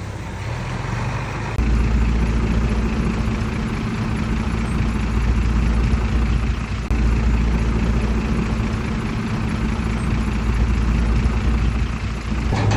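Heavy diesel engine running steadily, stepping up louder about one and a half seconds in.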